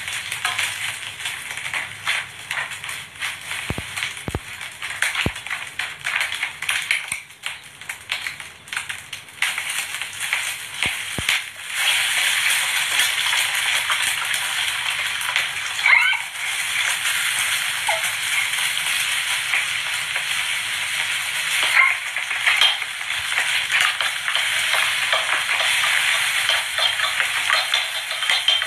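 Egg frying in hot oil in a wok over a wood fire: a crackling sizzle that gets louder and steadier about twelve seconds in.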